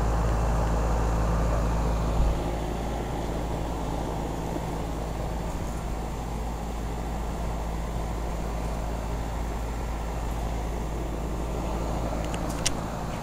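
Outdoor unit of a 2005 Goodman heat pump running in heating mode with its coil frozen over, the compressor giving a steady low hum under the fan. A brief thump about two seconds in, after which the hum is softer, and a sharp click near the end.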